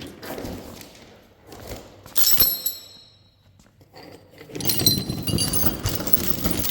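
Metal parts clinking and rattling as they are handled: a short jangle about two seconds in, then a longer run of clanking and rattling over the last two seconds.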